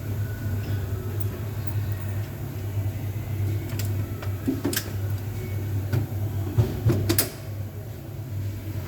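Steady low engine hum with a handful of sharp clicks and knocks in the second half.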